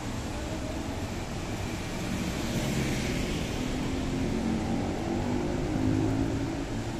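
City street traffic: a steady hum of engines from passing vehicles, with one vehicle swelling louder as it passes about three seconds in.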